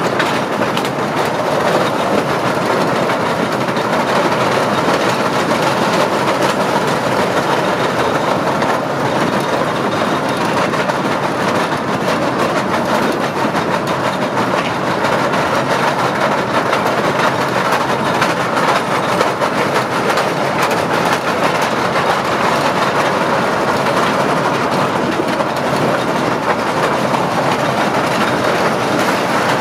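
Small open-carriage island toy train running steadily along its track, heard from aboard one of its carriages.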